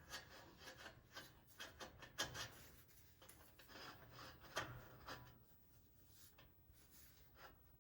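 Faint rubbing and scraping with scattered light clicks and knocks, as of hand tools and parts being handled.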